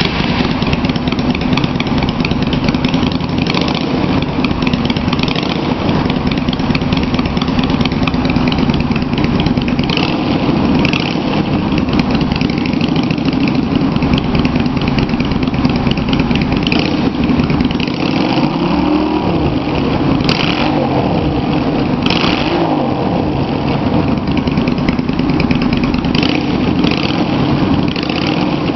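Yamaha V Star 250's air-cooled V-twin running at idle just after start-up, exhausting through West Eagle drag pipes fitted with fiberglass-wrapped baffles, a tone the owner calls gutsy but not too loud. A few brief rises in engine speed come a little past the middle.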